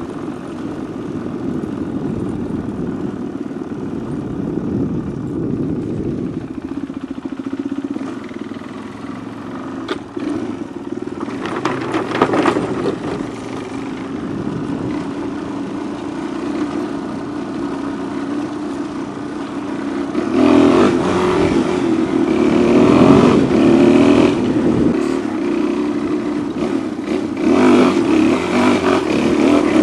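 Off-road motorcycle engine running under way, the throttle opening up harder about two-thirds of the way through and again near the end, with a brief scraping clatter around the middle. Heard through a microphone tucked inside the rider's helmet.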